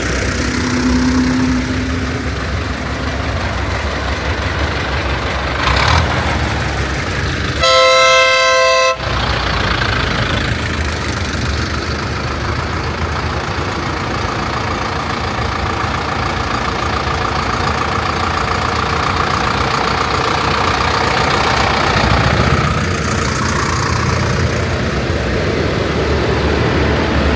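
Tractor engines running steadily as the parade passes, with one loud horn blast about eight seconds in that lasts just over a second.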